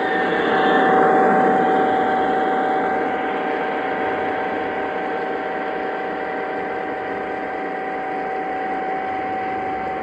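Lionel O-gauge Santa Fe E8 model diesel locomotives running on three-rail track: a steady motor whine over wheel rumble. It is loudest about a second in, then eases off a little.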